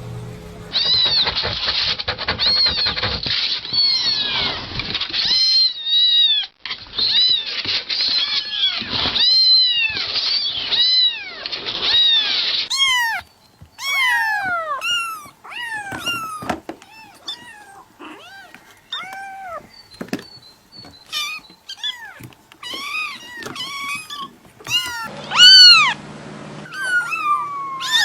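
Domestic cats meowing. For about the first twelve seconds comes a rapid run of short, high kitten mews; after that come separate, longer meows that fall in pitch, with the loudest one near the end.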